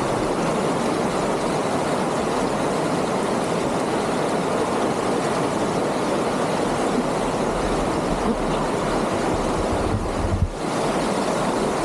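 Water rushing over a stream's rapids, a steady unbroken rush that dips briefly about ten seconds in.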